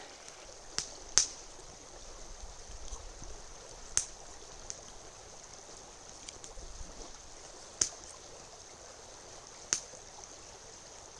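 Steady, faint rushing of a river, broken by a few sharp clicks.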